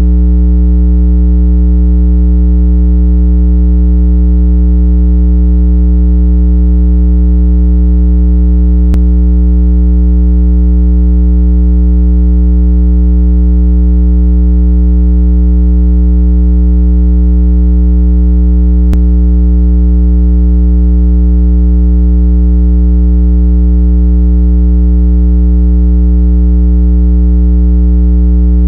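Loud, continuous electronic water-eject tone, held at one unchanging low pitch with a buzzy stack of overtones above it. It is played to make a speaker or earbud vibrate hard and shake trapped water out. A faint click comes twice, about ten seconds apart.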